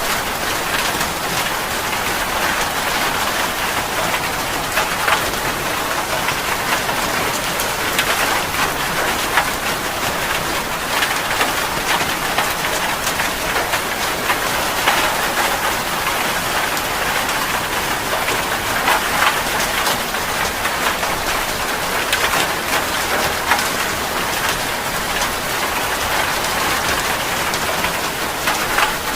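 Rain falling steadily: a dense, even hiss with many sharp single drop impacts scattered through it.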